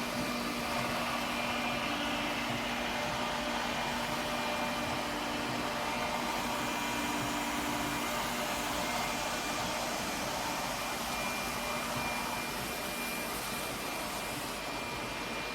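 Lefant M1 robot vacuum running, a steady suction whir with a low hum and a faint high whine.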